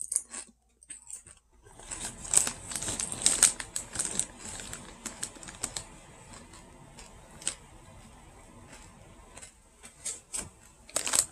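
Someone chewing Zapps kettle-style potato chips: irregular crisp crunches, thick at first and thinning out over the later seconds.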